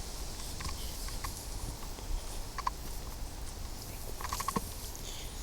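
Walking outdoors on a path: faint footsteps and scattered small clicks over a low wind rumble on the microphone, with a short run of four quick chirps about four seconds in.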